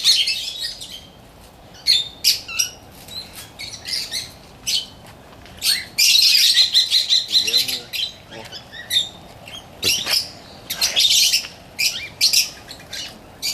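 A flock of small parakeets chattering, with many short, shrill chirps in bursts and a dense spell of chatter about six seconds in.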